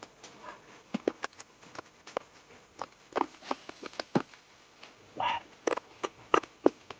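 People eating: irregular short clicks and smacks of utensils and chewing, with a brief slurp-like burst about five seconds in.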